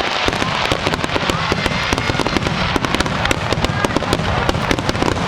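Fireworks display: a dense, continuous crackle of many small pops and bursts, closely spaced, over a steady low rumble.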